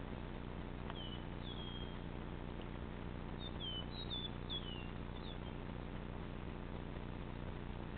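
A bird chirping: a few short, high calls that slide downward, a pair about a second in and a quick cluster around four to five seconds in, over a steady low hum.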